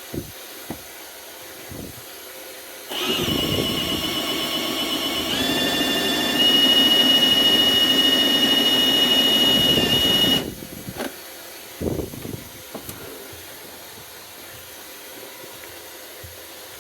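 Cordless Milwaukee M18 Fuel hammer drill spinning a flexshaft drain-cleaning cable for about seven seconds: a high motor whine that steps up in pitch twice as the speed rises, then stops suddenly.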